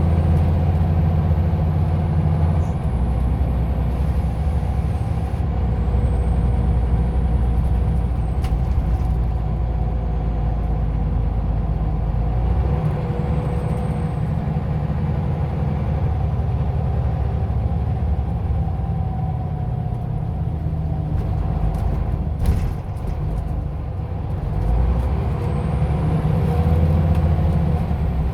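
Scania OmniLink I city bus engine running under way, its drone rising and falling in pitch as the bus accelerates and slows. About 22 seconds in there is a short sharp sound. The engine then eases for a moment before picking up again.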